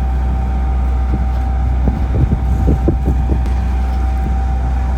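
Wind buffeting the microphone over the steady low rumble of a sailboat underway in rough, choppy water, with a run of heavier gusts or thumps about two seconds in.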